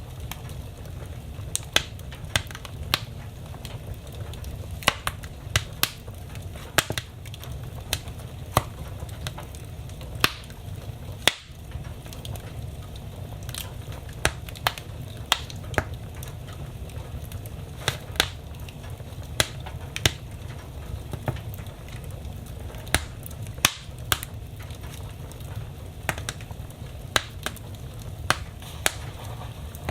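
Wood fire burning in a fireplace, its logs crackling with irregular sharp pops, a few every couple of seconds, over a steady low rumble of the flames.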